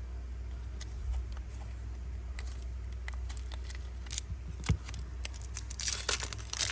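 Hands handling a boxed lighter and its packaging: scattered light clicks and taps, one sharper knock about two-thirds of the way in, then crinkling of wrapping near the end, over a low steady hum.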